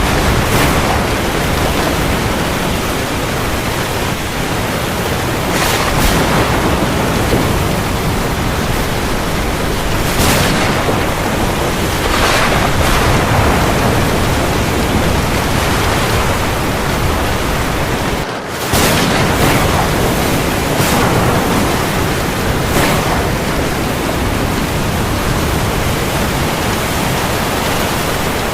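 Heavy rain falling on the sea: a loud, steady hiss that swells briefly every few seconds, with a short drop in level about two-thirds of the way through.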